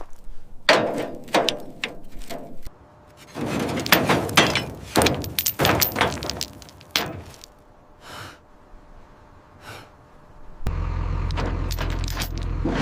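Heavy steel tie-down chains clanking and rattling against metal in two bursts of rapid knocks, then a couple of faint knocks. Near the end a steady low rumble sets in.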